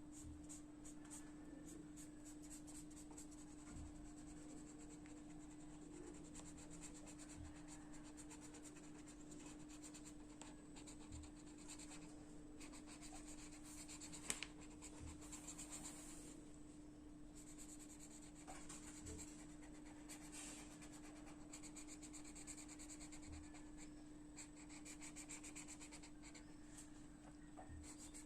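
Faint, quick scratching strokes of colour being rubbed back and forth on paper, filling in an area, over a steady low hum. A single sharp click about halfway through.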